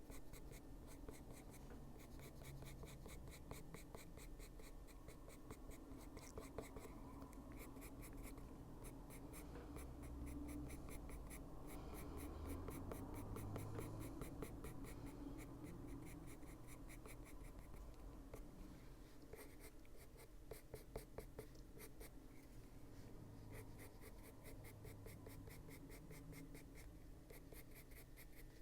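Caran d'Ache Luminance coloured pencil shading on paper: a faint, fast, continuous run of short scratchy strokes.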